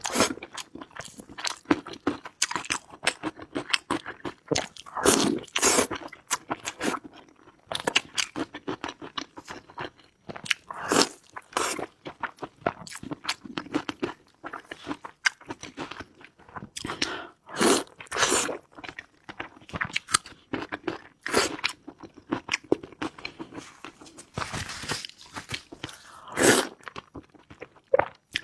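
A person eating, chewing and crunching food in irregular, sharp bites.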